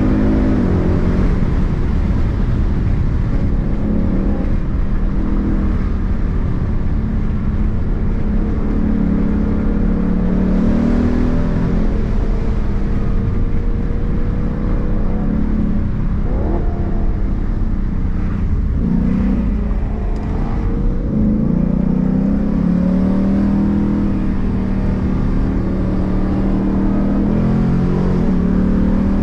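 Ford Mustang's engine heard from inside the cabin, its note climbing and dropping again and again as it accelerates and eases off, over steady road rumble.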